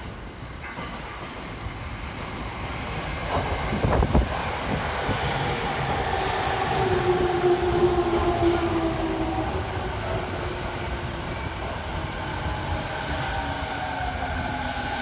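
JR 209 series electric commuter train arriving at a platform: a rumble that grows louder as it approaches, with a short run of wheel knocks over the rail joints a few seconds in. Then a whine that slowly falls in pitch as the train brakes along the platform.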